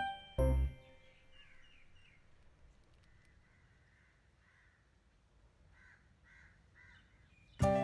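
Faint animal calls during a pause in the music, with a run of three or four short, harsh calls near the end.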